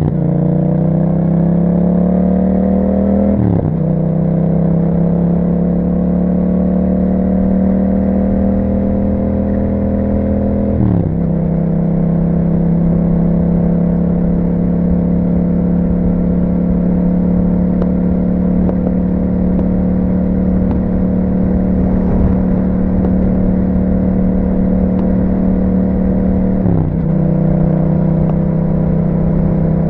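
Yamaha MT-07's parallel-twin engine through an Akrapovic exhaust, heard from on the bike: it pulls up in revs, then upshifts three times, each shift a quick drop in pitch, and between shifts it cruises at a nearly steady engine speed.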